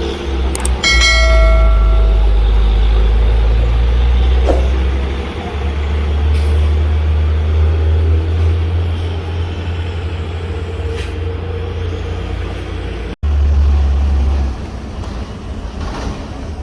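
Heavy truck engines running with a deep, steady rumble. About a second in comes a short high-pitched tonal blast, and the rumble falls away near the end.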